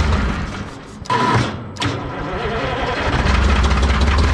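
The diesel engine of a 1978 Hein-Werner excavator being cranked on starting fluid and trying to catch. Its low rumble fades about a second in, comes back unevenly, then builds again.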